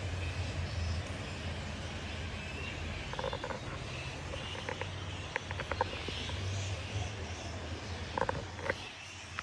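Outdoor ambience: a steady low rumble with short chirping animal calls about three seconds in, again around five seconds, and a cluster around eight seconds.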